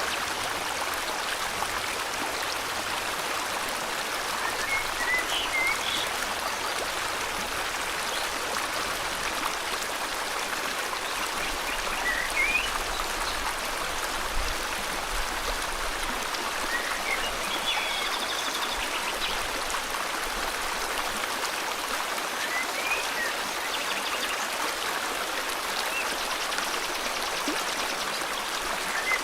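Steady rushing of flowing river water, with scattered short bird chirps a few times over it.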